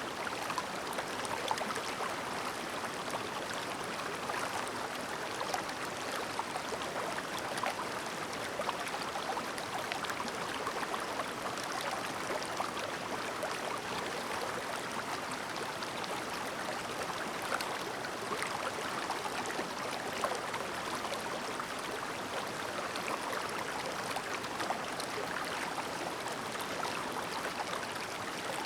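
A clear, shallow river babbling over stones: a steady, even rush of water with fine splashing and gurgling, no birdsong.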